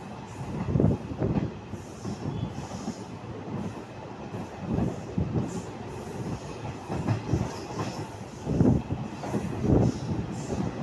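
Passenger train coach running along the track, heard from its open doorway: the wheels rumble and clack on the rails. The noise swells and falls every second or two, with a few sharp knocks.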